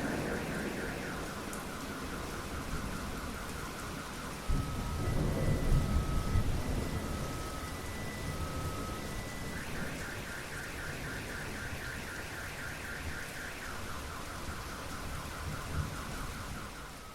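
Steady heavy rain, with a rolling rumble of thunder that surges about four and a half seconds in. Behind it an electronic alarm cycles through rapid pulsing tones and slower alternating two-note beeps.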